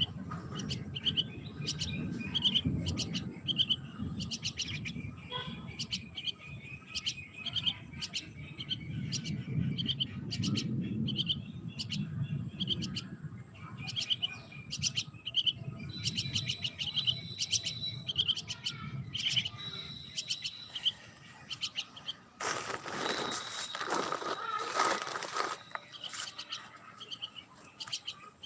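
Small birds chirping: many short, quick chirps repeated over and over, with a low rumble underneath. A loud burst of rustling noise lasts about three seconds near the end.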